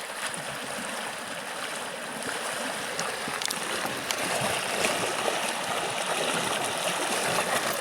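River water running steadily, an even rushing with a few faint ticks over it.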